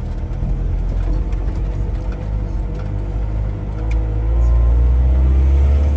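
Heavy vehicle engine rumbling, then rising in pitch and getting louder about two-thirds of the way through, as if accelerating.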